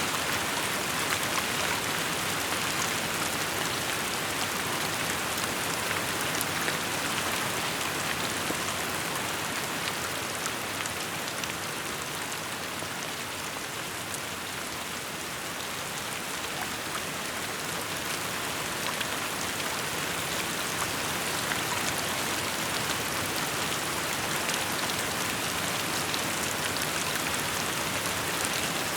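Steady rainfall, a dense hiss of drops with many small ticks from drops striking surfaces, easing slightly in the middle.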